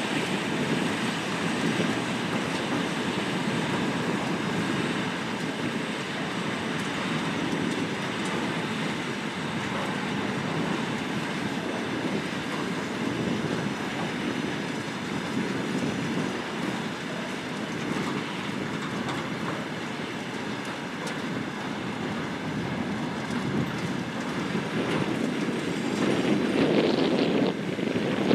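Train running on the rails, a steady rolling noise of wheels on track that grows louder near the end.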